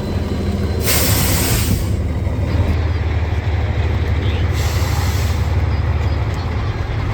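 Heavy truck engine running with a steady low drone. Two bursts of air-brake hiss come over it, the first about a second in and lasting over a second, the second shorter, at about four and a half seconds.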